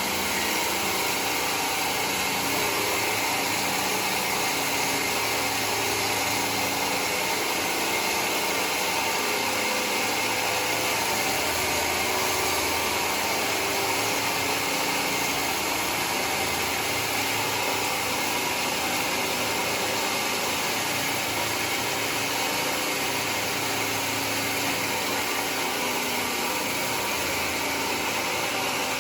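Homemade sawmill running steadily: a constant machine hum with an even hiss over it, no starts or stops.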